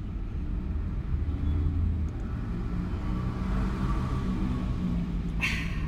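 Steady low rumble inside a car cabin, typical of the car's engine idling. A brief breathy hiss comes near the end.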